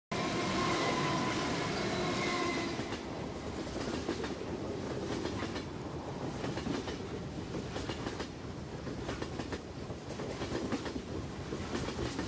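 Electric commuter train running past, its wheels clattering over the rail joints. A steady whine is heard for about the first two seconds.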